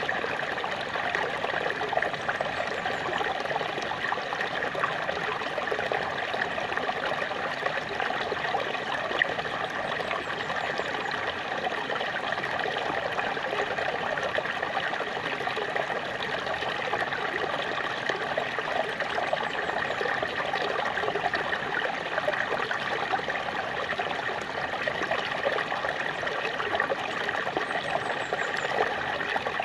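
Small waterfall: water splashing and trickling in a steady, even rush without pauses.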